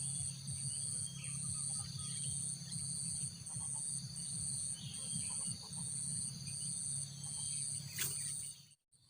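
Insects trilling in a steady pulsing chorus, a little under two pulses a second, with a few faint bird chirps; the sound cuts out briefly near the end.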